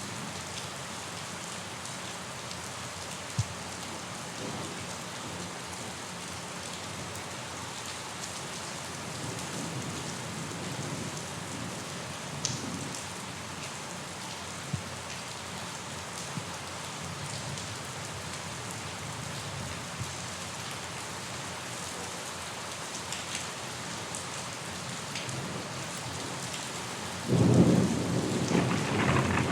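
Steady rain falling, with a few sharp drops ticking on a surface. Near the end a loud, low rumble of thunder sets in suddenly.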